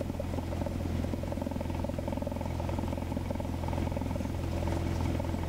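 Piper Cherokee's single piston engine running steadily at low power, heard through the cockpit intercom as an even drone.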